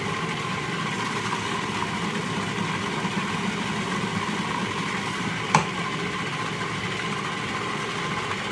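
Steady mechanical hum, like a running fan or motor, with one short sharp click about five and a half seconds in.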